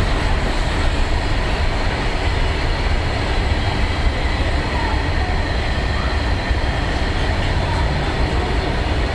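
Freight train hauled by a WAG9 electric locomotive rolling through a station, a steady heavy rumble of wheels on rails.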